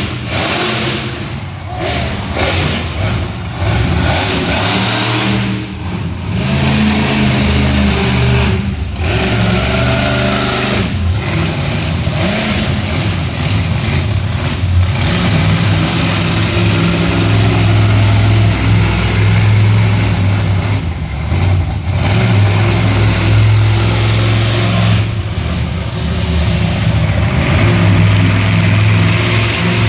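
Monster truck engine running hard and revving, with short breaks in the sound several times where the throttle is lifted and then opened again.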